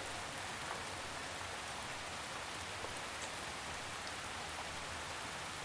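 Steady gentle rainfall, with a few individual drops ticking faintly here and there.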